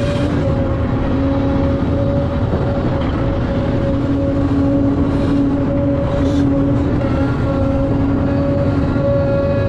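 Heavy diesel earthmoving machinery working: a Volvo EC950F excavator loading Volvo A60H articulated haul trucks. The engines run loud and steady, with a steady whine held over the rumble.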